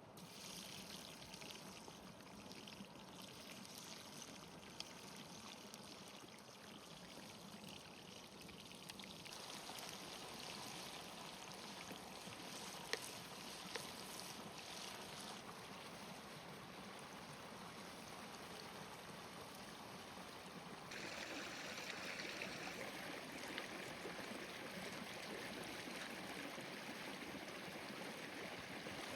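Steady water noise that turns louder and brighter in two sudden steps, about a third of the way in and again about two-thirds in, with a few faint sharp clicks.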